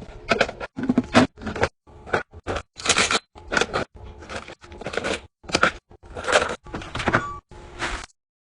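Restocking handling sounds: a rapid series of short knocks, scrapes and clatters as food containers and packages are set down and moved about, with abrupt silent gaps between them. The series cuts off about 8 seconds in.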